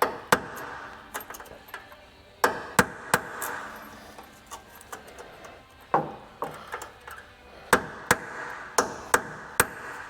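Hammer striking a steel punch to drive out a Humvee hood hinge pin. About ten sharp metallic strikes come in uneven groups, each with a short ring.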